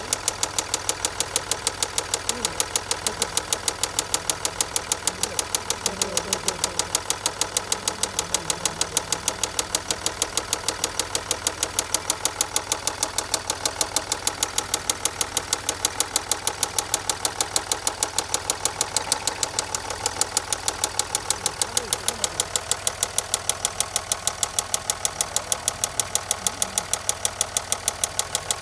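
2011 Range Rover Sport's turbocharged engine running steadily with a sharp, regular knocking tick, about four a second. The noise appeared after a turbo replacement and comes with fault code P1247.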